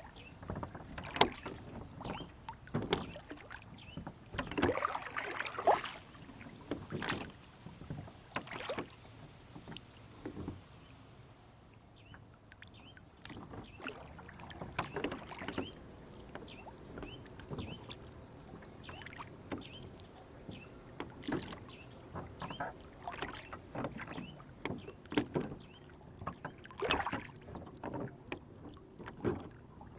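Small rowboat on a lake: water lapping and splashing against the hull, with irregular knocks and splashes at uneven intervals, quieter for a few seconds about a third of the way in.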